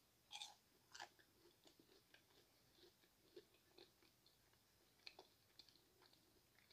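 Faint chewing of a fried, breaded jalapeño cheddar bite: a few soft crunches in the first second or so, then quieter scattered chews, with a couple more crackles about five seconds in.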